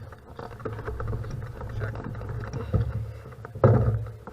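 Low wind rumble on the microphone with scattered crunching and rattling, typical of a bicycle rolling on gravel, and a louder knock about three and a half seconds in.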